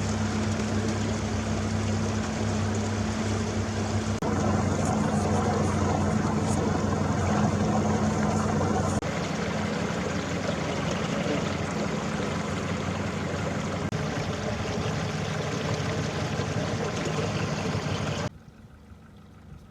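Boat's outboard motor running steadily under way: a low, even hum over rushing water noise. It shifts abruptly a couple of times and drops away sharply near the end.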